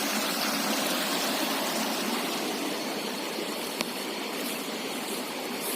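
River water flowing, a steady even rushing, with one sharp click a little under four seconds in.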